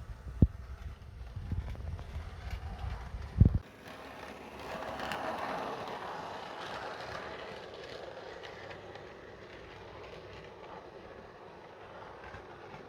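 Hornby Class 47 model diesel locomotive running on track: its motor and wheels make a rolling whirr that grows loudest about five seconds in, as if passing close, then slowly fades. Before that there are low rumbles and two sharp knocks.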